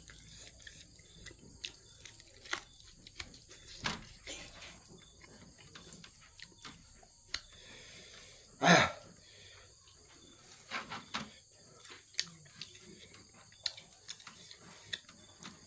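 Crickets chirring steadily in the background, over scattered small clicks and smacks of someone chewing and eating. One louder, longer mouth sound comes a little past halfway.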